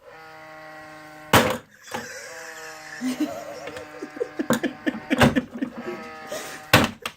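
Noisy humidifier giving off a steady droning whine with a bleat-like tone, while it is struck by hand: several loud whacks, the first about a second and a half in, and a flurry of smaller knocks in the middle. The blows make the noise waver and cut in and out.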